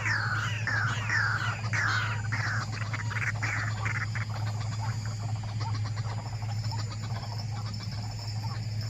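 White-breasted waterhen calling: a fast run of repeated downward-sliding notes, about two a second, that fades out about four seconds in, over a steady low hum.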